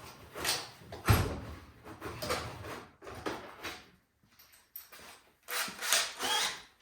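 Hand tools and metal parts being handled while a snowblower engine is taken apart: a series of short scrapes and rattles, with one sharp knock about a second in.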